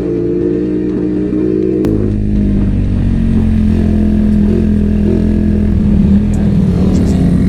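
Suzuki Raider R150 motorcycle engine running. About two seconds in, its note drops in pitch and grows louder, then holds steady.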